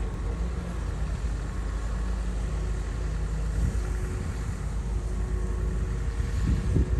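Komatsu bulldozer's diesel engine running steadily with a deep low drone, with a few louder low thumps near the end.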